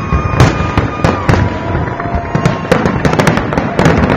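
Fireworks going off: a rapid, irregular series of bangs and crackles, several a second, with a few long whistling tones heard over them.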